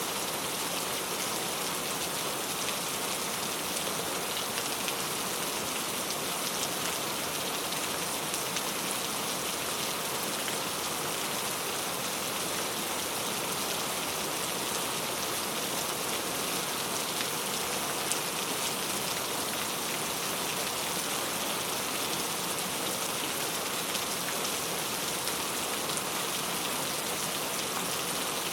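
Very heavy rain falling steadily, a dense even hiss with scattered sharper drop hits.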